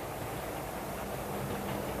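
OO gauge model of a Class 35 Hymek diesel running on track: a steady engine drone from its sound fitting, with faint clicks from the wheels passing over rail joints.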